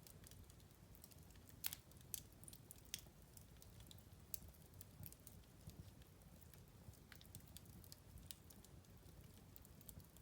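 Wood fire in a fireplace crackling quietly, with irregular sharp pops and snaps over a soft low rumble of burning; the loudest pop comes a little under two seconds in.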